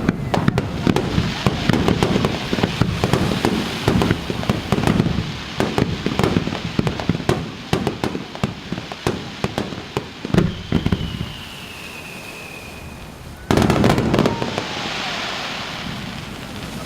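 Aerial fireworks shells bursting in quick succession, a rapid run of bangs and crackles. After a brief lull with a thin whistle falling slightly in pitch, another loud burst comes about three-quarters of the way through and fades into crackling.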